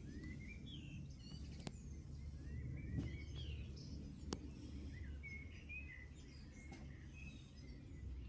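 Several small birds chirping and twittering in quick short calls, over a steady low outdoor rumble, with a few sharp clicks, two of them standing out near the middle.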